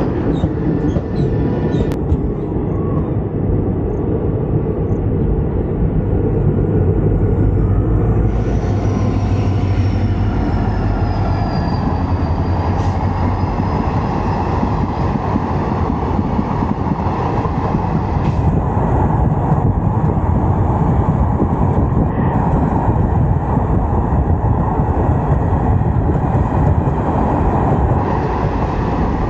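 Passenger express train running along the track: a steady, low rumble of the coach and wheels on the rails, with a faint high squeal partway through.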